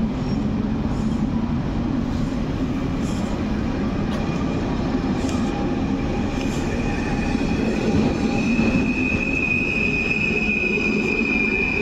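PKP Intercity Stadler Flirt electric multiple unit (ED160) moving along the platform, a steady rumble of wheels and running gear. A high steady squeal comes in and grows louder from about two thirds of the way through.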